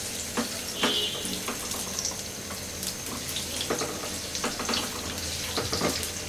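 Onions and garlic starting to fry in hot oil in a ceramic-coated pan: a steady gentle sizzle with scattered small pops, while a silicone spoon stirs them.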